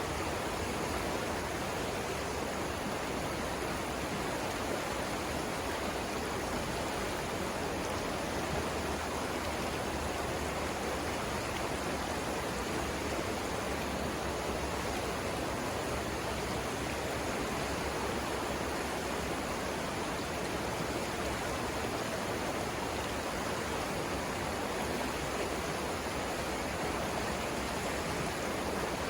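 River water rushing over rapids, a steady, unbroken rushing.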